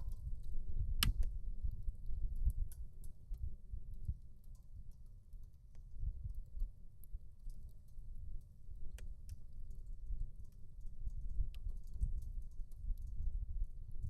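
Wood fire crackling in a portable titanium fireplace: irregular sharp pops and snaps, the loudest about a second in, over a steady low rumble.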